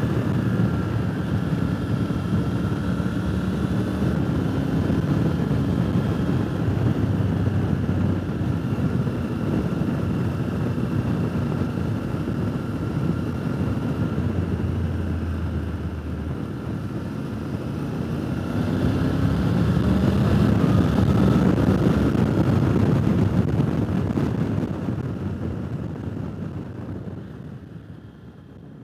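Triumph motorcycle engine running at speed on the road, with wind noise. The engine note rises about two-thirds of the way through as the bike accelerates, then the sound fades out near the end.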